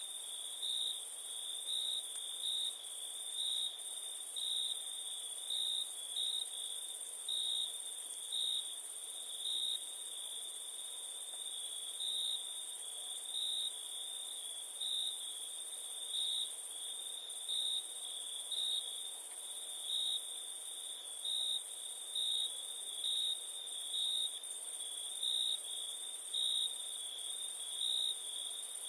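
Crickets chirping in a steady high trill that swells into a louder pulse about once a second, over a second, even higher continuous insect trill.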